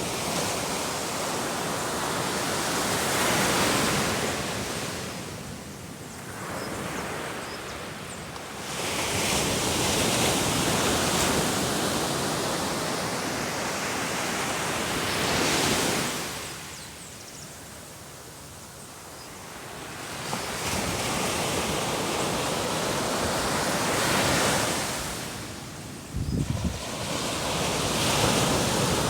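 Sea waves breaking on the shore and washing back, the surf swelling and fading every several seconds. A brief low rumble of wind on the microphone comes near the end.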